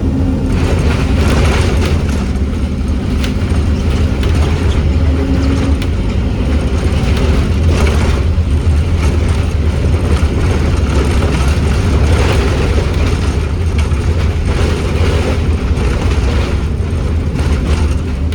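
Scania N270UD OmniCity double-decker bus on the move, its five-cylinder diesel engine running with a steady low rumble, heard from inside the bus along with scattered knocks and rattles from the bodywork.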